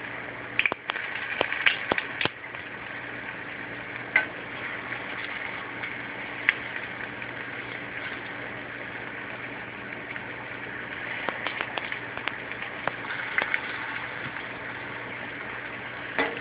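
Saltfish fritters deep-frying in a pan of oil: a steady sizzle with small crackles and pops. A few sharp clicks come from the fork turning the fritters against the metal pan, several in the first two seconds and a cluster a little past the middle.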